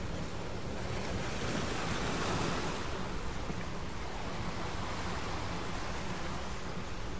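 Ocean waves washing on a shore, one wave swelling about two seconds in and then drawing back.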